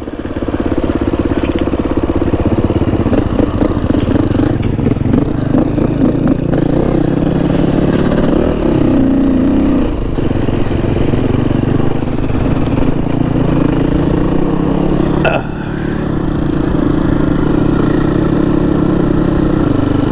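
Motorcycle engine running steadily under way. There is a brief drop in level about fifteen seconds in, after which it carries on steadily.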